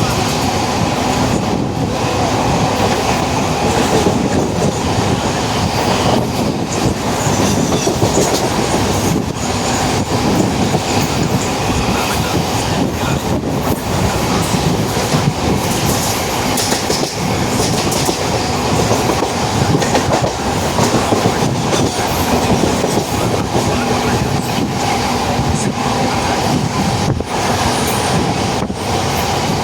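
Mumbai suburban local train running along the track, heard from inside the coach: a loud, steady rumble of wheels on rails with clickety-clack over the rail joints and a faint steady whine.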